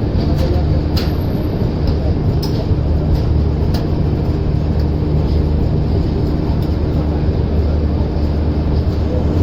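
Passenger train running along the track: a steady rumble with a low, even hum and a few faint light clicks.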